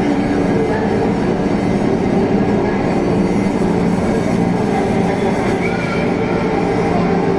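Drone and noise music: a dense, steady wash of noise over several held low tones, unchanging, with no beat.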